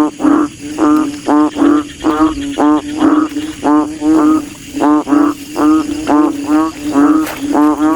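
Frogs calling: short pitched croaks repeating about three a second in runs of two or three, without a break.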